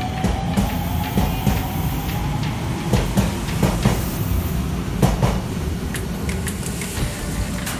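Odakyu electric commuter train pulling out of a station platform, its wheels clacking over rail joints as the cars pass, over a steady rumble. A faint rising motor whine sounds as it picks up speed near the start.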